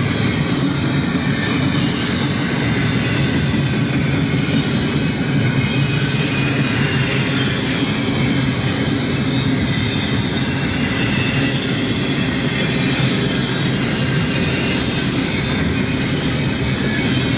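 Double-stack intermodal freight train's well cars rolling past, with the steady noise of steel wheels running on the rails.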